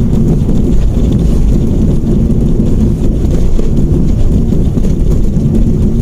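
Steady low rumble of a Mitsubishi Mirage hatchback on the move, engine and tyre noise heard from inside the cabin.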